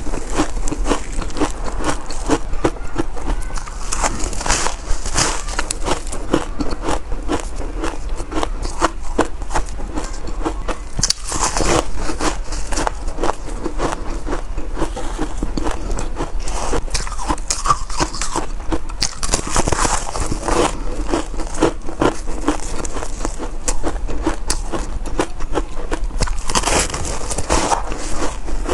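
Close-up biting and chewing of shaved ice: a dense, continuous run of squeaky crunches and crackles, bite after bite.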